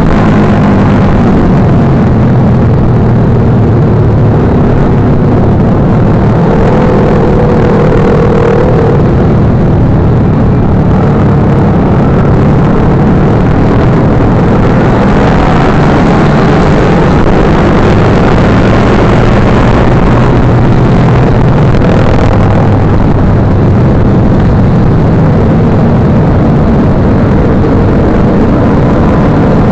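Motorcycle engine running steadily, loud and constant, with no clear change in pitch.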